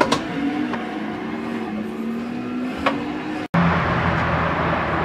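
A motor vehicle engine runs, its pitch sagging and then rising slowly. After a sudden cut about three and a half seconds in, it gives way to a steadier, noisier engine run with a low hum.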